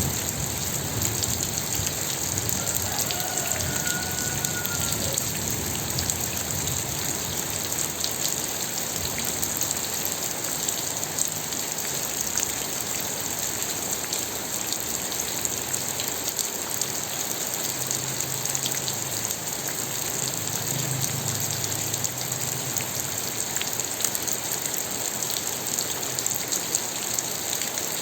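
Steady rain falling, with individual drops ticking on a surface over the constant hiss. A faint low rumble swells briefly about two-thirds of the way through.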